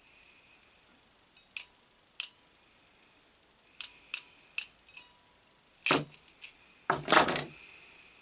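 Small hand tools handled while wiring: a series of sharp metallic clicks and snips, then two louder rattling scrapes near the end.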